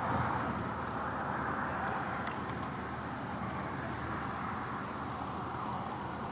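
Steady outdoor background noise, a constant hiss with a low rumble under it; no firework shots stand out.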